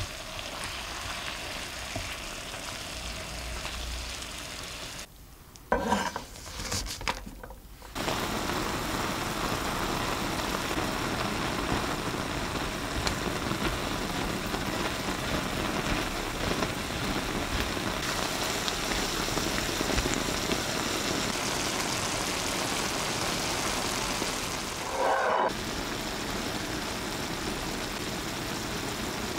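Minced beef and onions sizzling steadily as they fry in a pan. About five seconds in the sizzle briefly drops away, with a few sharp knocks, then the frying hiss comes back at full strength.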